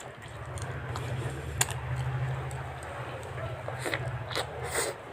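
Eating sounds from someone chewing fried chicken, with a few short sharp crunches or clicks, one about a second and a half in and several near the end, over a steady low hum.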